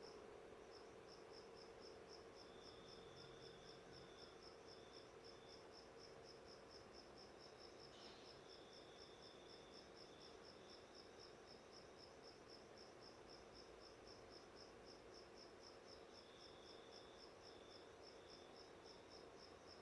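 Faint, steady chirping of a cricket, about four evenly spaced chirps a second, over a low steady hum.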